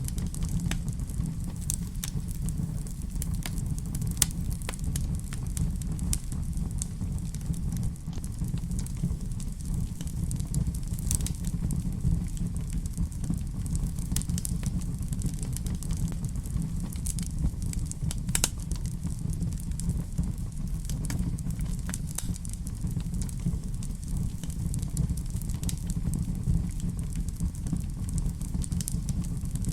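Fireplace fire crackling: a steady low rumble of flame with scattered sharp pops and snaps throughout.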